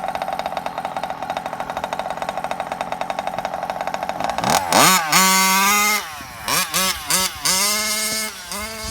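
CY 27.2 cc two-stroke engine with a DDM tuned pipe in a Losi 5ive 1/5-scale RC car, idling steadily, then revved from about halfway in: sharp rises in pitch, high held revs and several short throttle blips.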